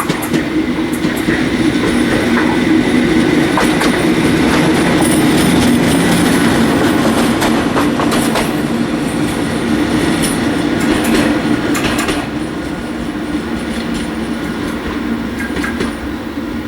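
Train rolling along the platform track, its wheels clicking over rail joints and points with a steady rumble. The sound eases off after about twelve seconds as the train slows.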